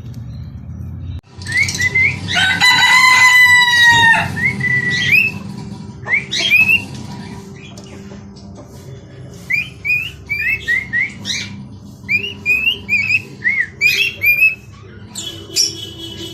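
Small pet parrots calling. About two seconds in comes one long, loud screech lasting nearly two seconds, followed by shorter calls, then a run of quick rising chirps, several a second, in the second half.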